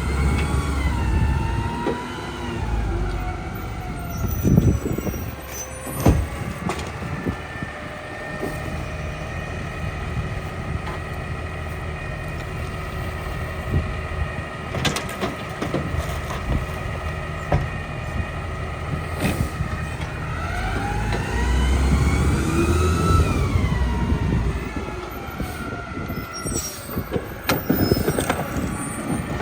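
Mack LEU garbage truck with a New Way rear loader body running through a packing cycle. The engine revs up and back down with a rising and falling hydraulic whine, once near the start and again about two-thirds in. Between the two it runs steadily, with a couple of sharp knocks early on.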